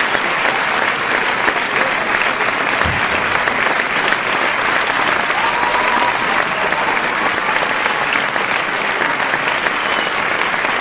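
Continuous crowd applause: many hands clapping at once in a dense, steady patter that neither builds nor fades.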